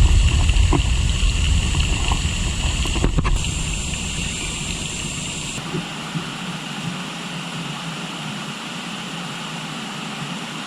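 Steady rush of a river, with a steady high-pitched hum over it. A heavy low rumble fades away over the first few seconds.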